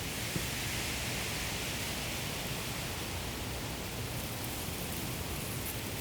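Wind blowing across a field of ripe rice, the stalks and heads rustling in a steady hiss over a low rumble of wind.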